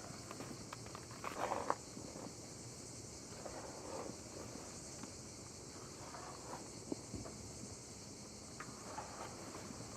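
Crickets chirring steadily in the background, with scattered rustles and light knocks over them, the loudest about one and a half seconds in.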